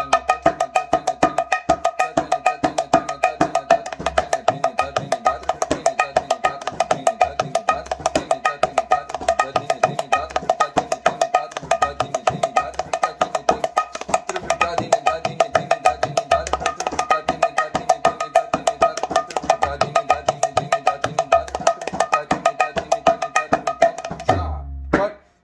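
Mridanga (khol) played solo in a rela, a fast, even stream of strokes over the ringing pitch of the treble head, with deep bass-head strokes now and then. The playing stops briefly about a second before the end, then starts again.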